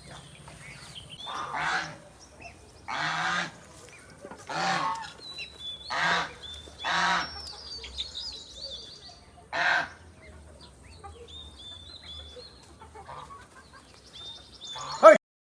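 A large bird giving loud honking calls, six of them spread over about eight seconds, with faint high chirps of smaller birds between. A sharp loud burst comes near the end, and then the sound cuts off.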